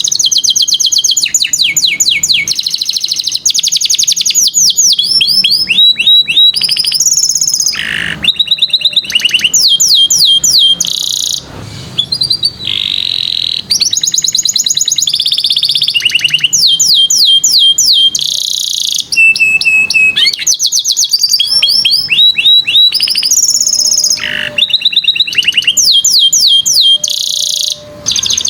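Domestic canary singing a continuous, loud song of rapid trills: phrases of fast repeated sweeping notes that change every second or two, with a few brief pauses.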